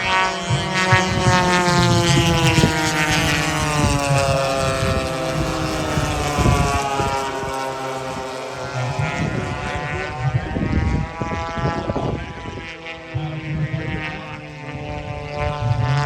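Several radio-controlled scale warbirds' gasoline engines drone in flight, more than one heard at once. Their pitch slides down and then back up as they pass.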